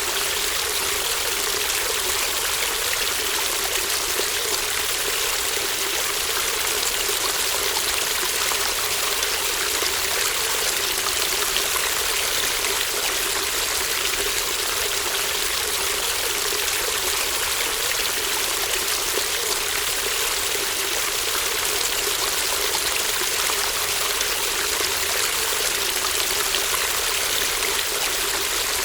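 Small shallow stream babbling steadily.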